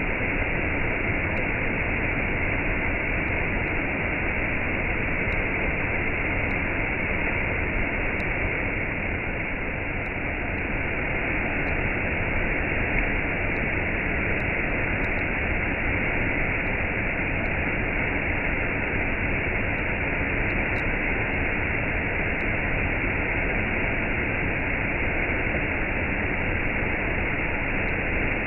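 Waterfall rushing steadily, a continuous even roar of falling water with no change in level.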